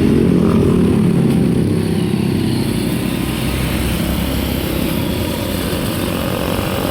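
Motor vehicle engine running as it drives along, with road and wind noise. It is louder in the first couple of seconds, then settles to a steady drone.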